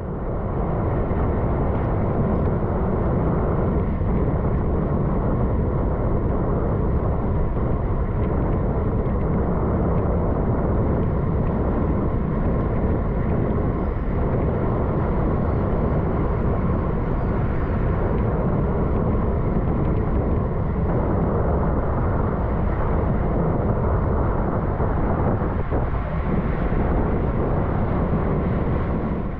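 Steady, loud wind rumble on the camera microphone of a bicycle ridden at race speed in a group.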